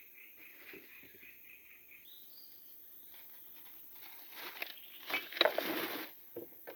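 An insect or bird calling in a rapid, even series of pulses, about four a second, that stops about two seconds in, followed by a brief higher note. Near the end come louder close-up rustling and a few knocks.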